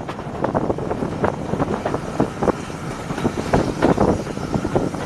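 Passenger train running, heard from an open carriage window: a steady rumble with irregular knocks and wind gusting on the microphone.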